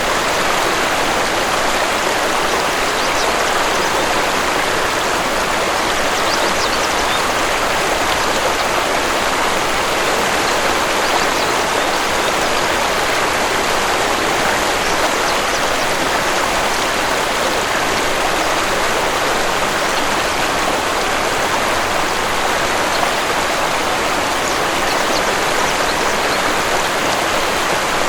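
Waterfall with water rushing steadily and evenly, without a break.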